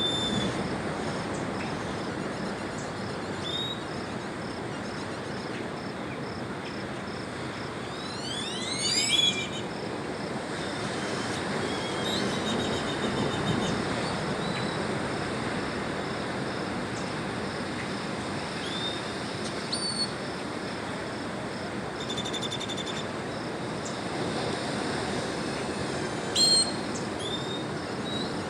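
Birds calling at dawn: short rising whistled chirps repeat over a steady rushing background noise. A louder sweeping call comes about nine seconds in, and a sharp one near the end.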